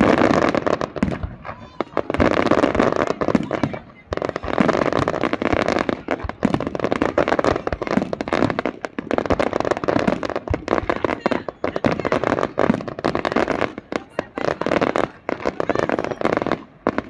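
Fireworks display: rapid, dense volleys of crackling and bangs, going on with hardly a break and easing briefly a couple of times.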